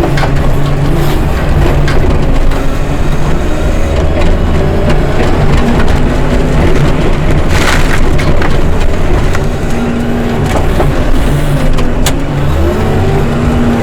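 Diesel engine of a heavy snow-clearing machine running loud and steady, its pitch sagging and climbing again near the end. A burst of crunching comes about seven and a half seconds in, and a sharp click a few seconds later.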